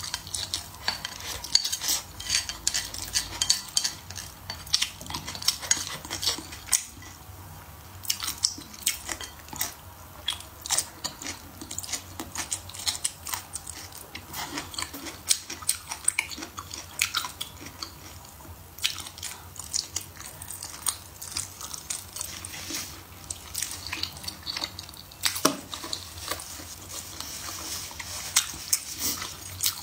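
Close-miked eating: chewing and mouth sounds as braised pork trotter and a blistered green pepper are eaten with chopsticks. Many small sharp clicks run throughout.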